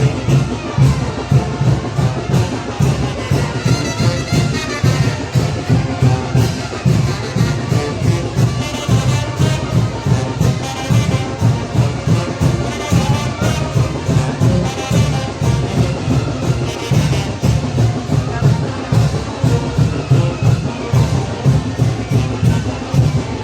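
Mexican banda de viento playing chinelo dance music: trumpets and trombones over a steady, driving drum beat.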